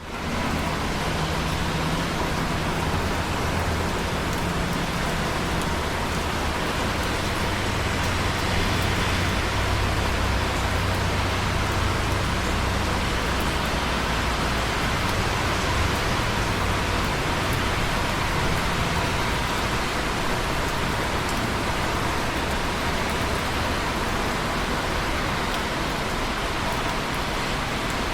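Steady rain: an even hiss of rainfall with faint scattered drop ticks. A low rumble sits underneath through roughly the first half.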